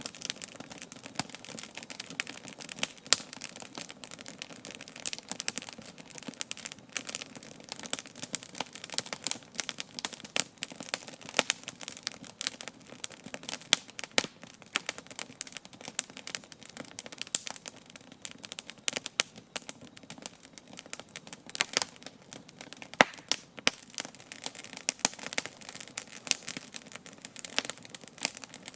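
Wood campfire crackling steadily, with frequent irregular sharp pops and snaps over a soft low rumble.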